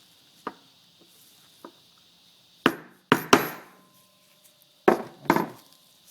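Sharp metal-on-metal taps with short ringing: a few light clicks, then five loud knocks in the second half, typical of tapping a new filter into a fuel injector with a small hammer and tool.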